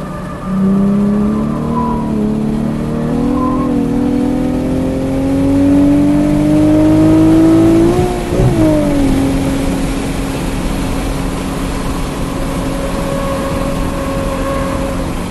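Nissan 370Z Nismo's 3.7-litre V6 heard from inside the cabin under full-throttle acceleration, its note climbing steadily for about eight seconds. The note then breaks and drops sharply, and it settles to a steady lower note while cruising at speed, with road and tyre noise throughout.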